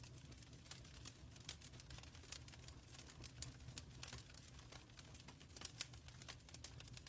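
Wood fire in a fireplace crackling: irregular sharp snaps and pops, a few louder than the rest, over a steady low rumble.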